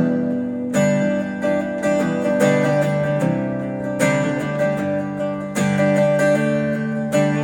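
Acoustic guitar strumming and picking chords in a steady rhythm, an instrumental lead-in before the singing starts.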